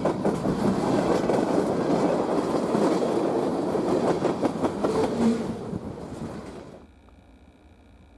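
Railcars of a southbound train rolling past, wheels clacking over the rail joints with a steady rumble. The sound fades for about a second and then cuts off suddenly around seven seconds in, leaving only a faint hum.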